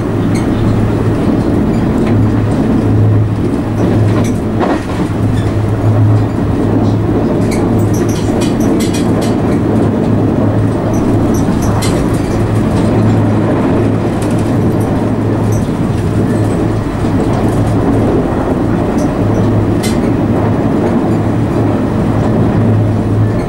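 Argo Anggrek passenger train running at speed, heard from inside the carriage: a steady rumble of wheels on rail with a low hum, and scattered sharp clicks from the running gear.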